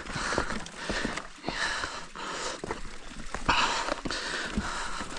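A mountain biker's heavy breathing, in repeated hissing breaths, over scattered clicks and knocks from the bike and footsteps on a rough trail.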